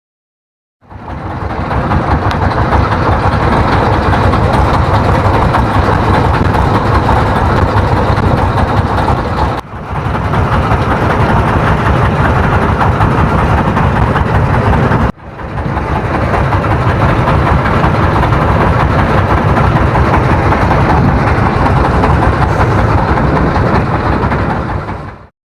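A boat's engine running steadily. It is heard in three stretches, with sudden breaks about 10 and 15 seconds in.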